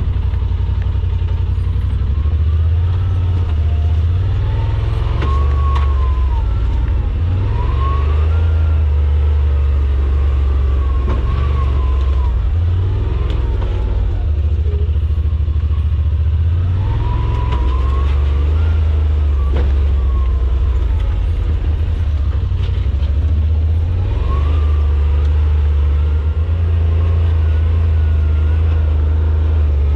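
Side-by-side UTV engine running at low trail speed, revving up and easing off over and over, with a low steady rumble and a whine that rises and falls with the revs.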